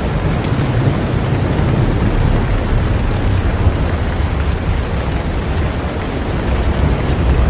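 Heavy rain falling on a boat: a loud, steady noise with a strong low rumble beneath it.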